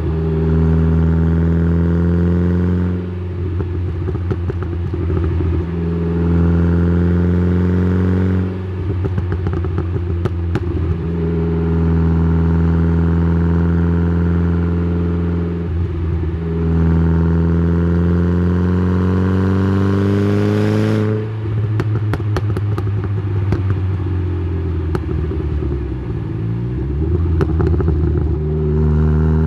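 Exhaust of a tuned Saab 9-3's B204 turbocharged four-cylinder through a Simons muffler, picked up by a mic at the tailpipe: the engine pulls through the gears, rising steadily in pitch and dropping at each gear change every few seconds. About two-thirds of the way through it comes off the throttle for several seconds with crackling and popping on the overrun, then pulls again near the end.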